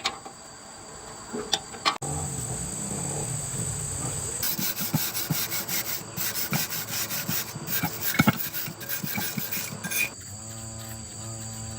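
Rapid, uneven rasping strokes, like filing or scraping with a hand tool, over a steady high chirring of crickets; near the end the rasping stops and music begins.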